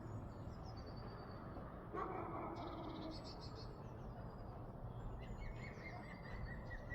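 Small songbirds chirping: short high calls, and about five seconds in a quick trill of repeated notes, over a steady low rumble.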